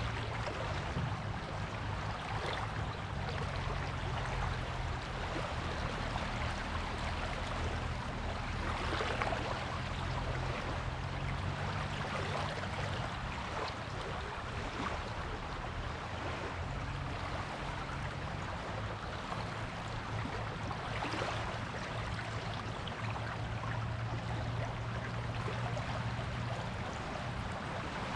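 Waves washing on a beach: a steady surf hiss that swells about nine seconds in and again about twenty-one seconds in. A low steady hum runs underneath.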